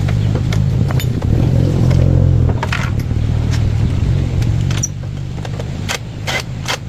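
Small motorcycle engine running with a steady low rumble that drops in level about five seconds in, with a few sharp clicks near the end.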